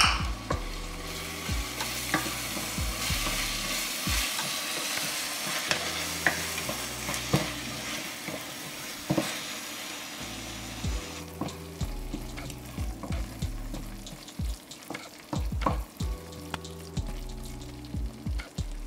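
Chopped tomatoes and onions sizzling in hot oil in a stainless steel pot while a spatula stirs them, scraping and knocking against the pot. The sizzle is loudest in the first half and dies down after about eleven seconds.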